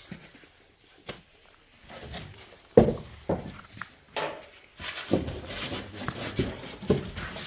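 Irregular knocks and clatter of objects being handled, the loudest a sharp knock about three seconds in, busier from about five seconds on.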